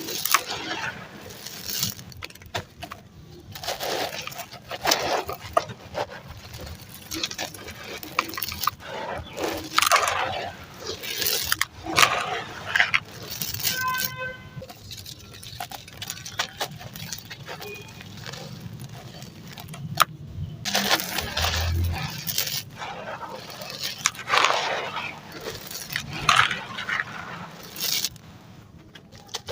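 Dry, crumbly ash-like material being crushed and crumbled, a run of gritty crunches and crackles coming in irregular bursts with short pauses between them.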